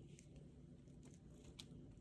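Near silence: faint room tone with a low hum and a few soft clicks.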